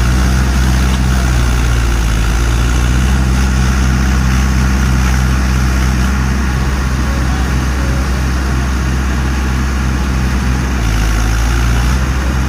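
Mahindra tractor diesel engine running steadily with a low, even hum.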